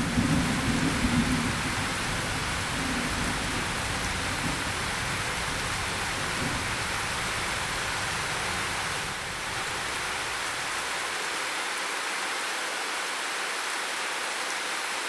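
Steady heavy rain hissing, with a low thunder rumble dying away in the first couple of seconds.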